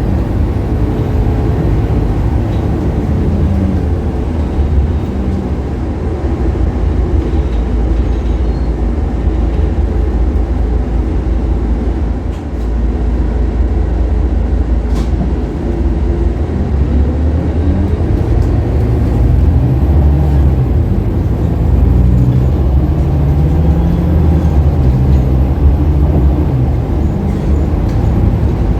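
Scania K280UB bus's five-cylinder diesel engine running as the bus drives, a steady low drone. The level dips briefly about twelve seconds in, and in the last third the engine note climbs several times as the bus pulls away and accelerates.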